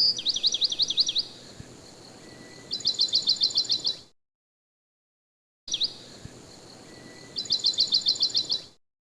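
Recorded birdsong played twice over: each time a run of quick, high, repeated chirps, a pause, then another fast run of about eight chirps a second, cutting off abruptly into silence.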